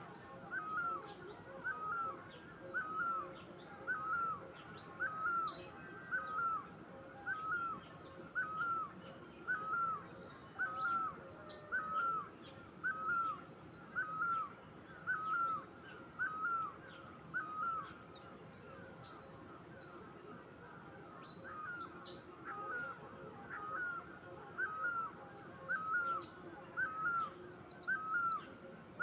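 Birdsong: one bird repeats a short hooked call over and over, a little more than once a second, while other birds break in every few seconds with bursts of high twittering.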